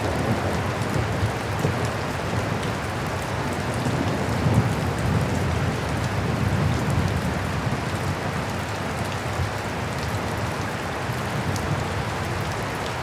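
Heavy rain falling steadily, a dense wash of drops with a low rumble beneath it.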